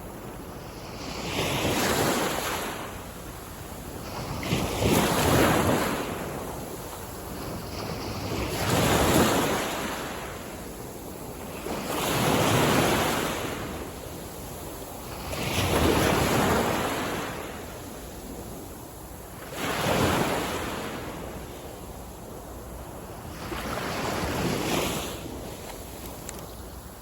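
Waves breaking on a beach, each wash swelling up and fading away, about one every three to four seconds.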